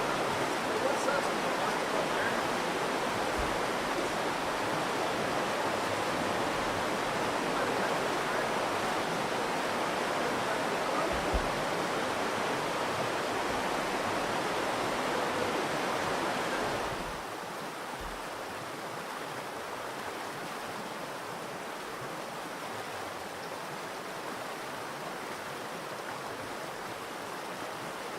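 Virgin River water rushing steadily over rocks in a sandstone canyon. About two-thirds of the way through, the rush drops suddenly to a quieter level.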